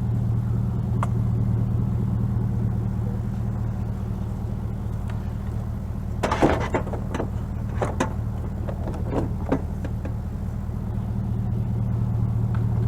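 Car engine idling steadily, with a cluster of knocks and clatters about halfway through and a few more shortly after.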